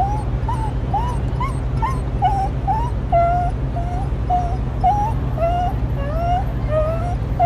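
A dog whining in a steady run of short, high whimpers, about two a second, each one gliding briefly up or down in pitch, over a steady low hum.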